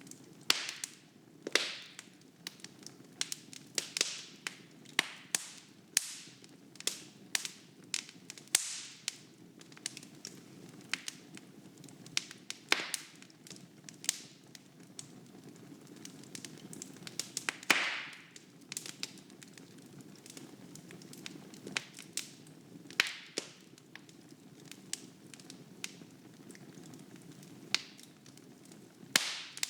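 Wood fire burning in a fireplace: irregular sharp crackles and pops from the burning logs over a low steady rush of flame, with a few louder pops scattered through.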